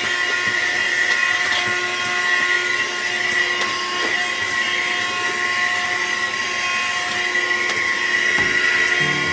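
Small vacuum cleaner running at a steady speed, a constant high-pitched motor whine.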